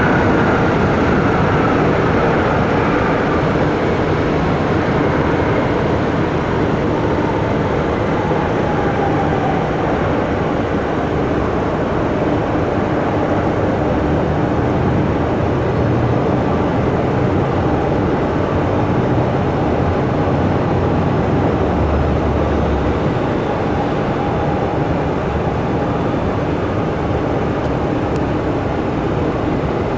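Jet airliner engines running loudly and steadily, with an engine whine falling in pitch over the first ten seconds or so.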